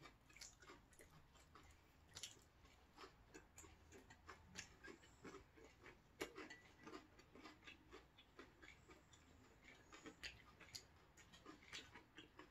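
Faint, close chewing of air-fried potato slices and whole capelin: soft irregular clicks and small crunches, with one sharper click about six seconds in.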